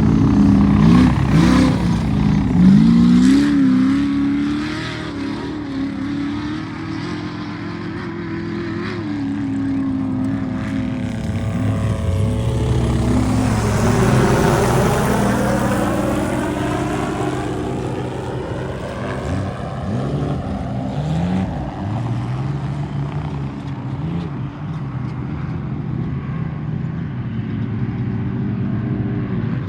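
Off-road race vehicles' engines revving hard, pitch rising and falling as they are driven through the course, with one loud pass-by swelling and fading around the middle.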